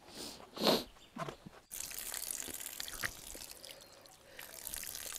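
Water running and splashing as a person washes their face, with a couple of short splashes first and then a steady trickle.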